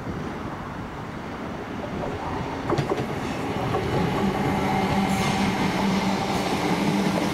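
A train approaching on the railway, growing louder, with a few wheel clicks about three seconds in and a steady hum setting in about four seconds in.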